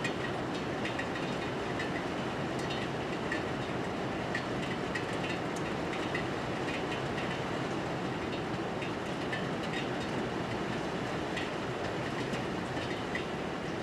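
Steady rainfall: an even hiss of rain with scattered small ticks of drops striking nearby surfaces.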